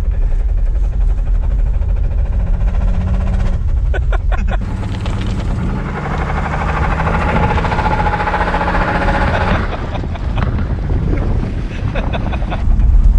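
1978 Plymouth Volare's slant-six engine running as the car is driven, with wind and road noise; a louder rush comes in for about four seconds in the middle. The engine has a bottom-end knock, which the owners put down to it sitting for years.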